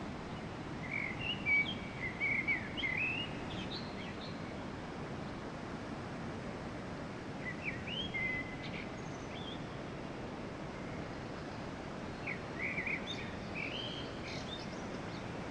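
Small birds chirping in three short bouts of quick, high chirps over a steady background hiss.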